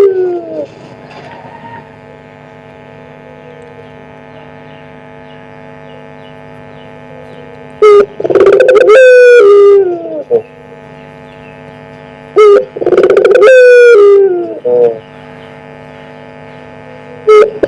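Puter pelung (Barbary dove) cooing loudly: three calls about five seconds apart, each a short note followed by a longer coo that drops in pitch at the end. A steady electrical hum runs beneath.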